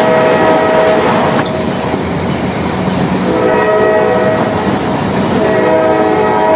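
Train horn sounding a steady chord over the running noise of a moving train; the horn cuts off about a second and a half in and sounds again a couple of seconds later.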